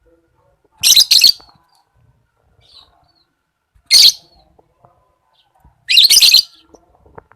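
Lovebird chirping loudly and high-pitched in three short spells, about a second in, at four seconds and around six seconds.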